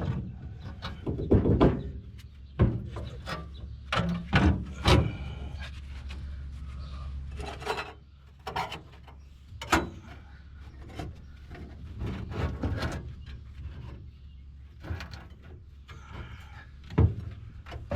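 Irregular knocks, clanks and scraping of sheet metal being handled and worked by hand, with the louder strikes bunched in the first few seconds and one more near the end.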